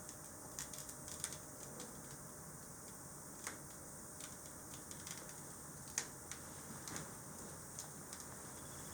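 Fire crackling in a fireplace: irregular sharp pops and crackles, the loudest about six seconds in, over a faint steady hiss.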